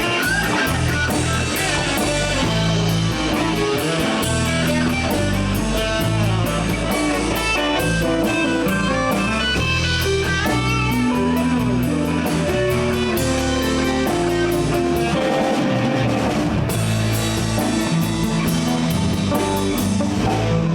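Live blues band playing an instrumental passage: electric guitar over bass and drum kit.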